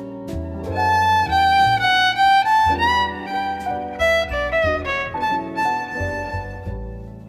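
Background instrumental music with a violin-like lead melody of quick notes over a bass line.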